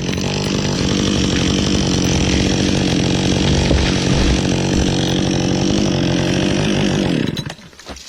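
Chainsaw engine running at a steady high speed while cutting through wood. It ends abruptly about seven seconds in.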